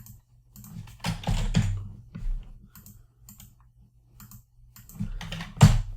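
Typing on a computer keyboard: a run of keystrokes about a second in and another near the end, the last keystroke the loudest, over a low steady hum.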